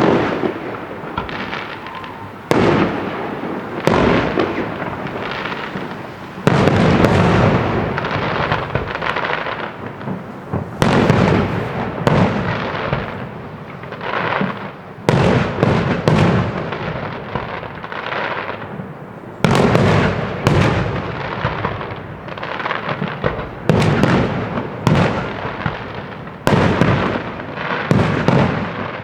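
Fireworks display: aerial shells bursting one after another, about one bang every one to two seconds, each followed by a crackling, fading glitter tail.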